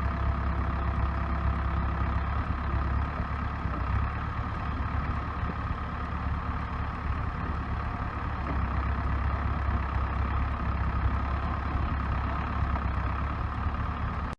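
Case 580B backhoe's four-cylinder diesel engine running steadily with a low, even hum.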